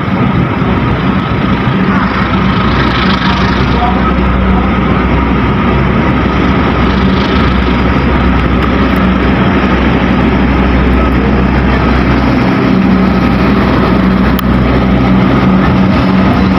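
Diesel train locomotive engine running steadily close by, a constant low drone with a steady hum over it.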